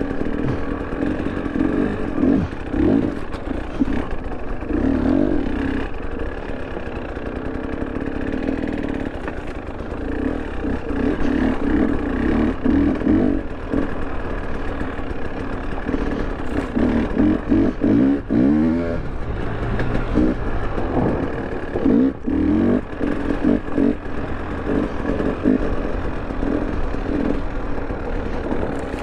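2023 KTM 300 Erzbergrodeo two-stroke enduro engine being ridden, its pitch climbing and dropping over and over as the throttle is opened and closed.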